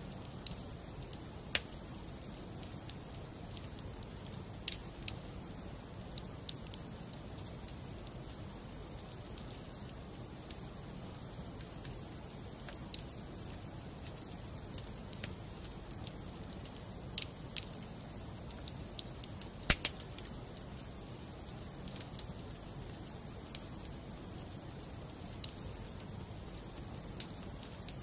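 Wood fire burning in a fireplace: a steady low rumble of flames with frequent, irregular sharp crackles and pops from the burning logs. The loudest pop comes about twenty seconds in.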